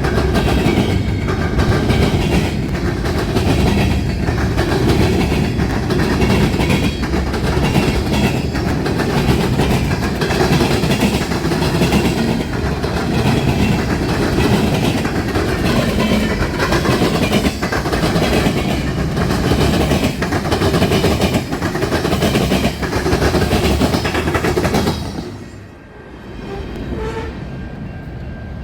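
Train passing close by, its cars rolling past with wheels clacking over the rails. The noise drops away suddenly about 25 seconds in as the train clears.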